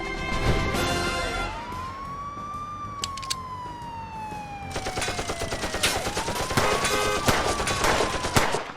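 Police car siren wailing, rising and falling in pitch twice. Rapid gunfire joins from about halfway through.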